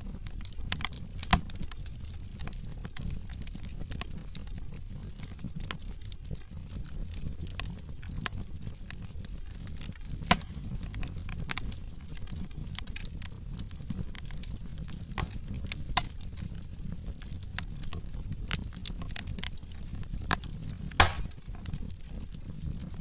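Wood fire burning in a fireplace: a steady low rumble of flames with frequent crackles and occasional louder pops from the burning logs, the sharpest about a second and a half in, ten seconds in and near the end.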